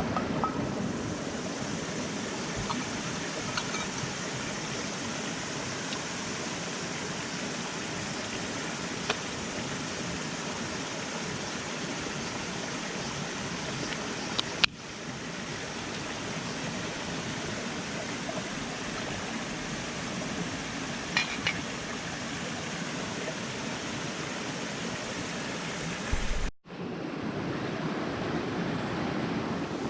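Steady rushing noise, like running water, with a few faint clicks scattered through it. The sound drops out briefly twice, about halfway and near the end.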